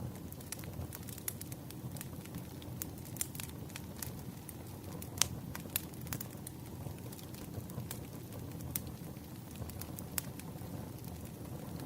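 Wood fire crackling: irregular sharp pops and snaps over a steady low rumble of the burning logs, with one louder pop about five seconds in.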